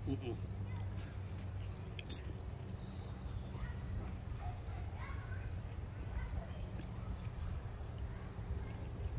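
Crickets chirping steadily in the background, a high chirp repeating evenly several times a second, over a low steady hum.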